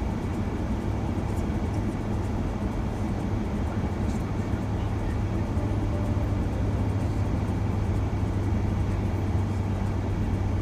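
Steady road and engine noise inside a moving shuttle van, with a constant low hum.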